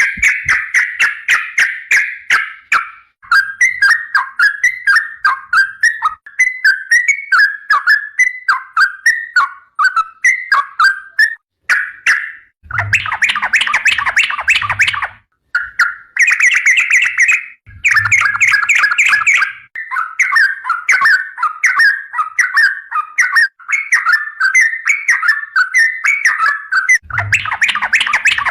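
Yellow-vented bulbul (trucukan) in long continuous song: rapid, bubbly chattering phrases of quick repeated notes. Three louder, denser bursts break in, about halfway, past the middle and near the end, with a low thumping underneath.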